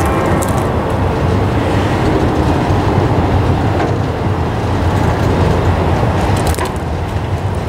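Freight train of loaded flatcars rolling past close by: a steady rumble of steel wheels on rail, with a few brief sharp clicks about half a second in and again about six and a half seconds in.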